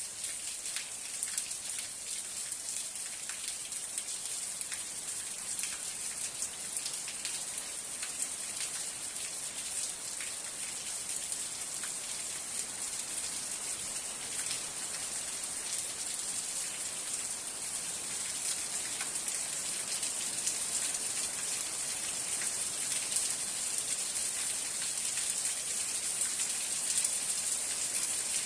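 Steady rain falling, a continuous high hiss full of individual drop ticks, growing slightly heavier in the second half.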